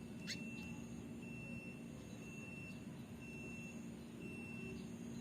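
Faint insect chirping: a thin, high, even tone in pulses about half a second long, roughly once a second, over a low steady hum.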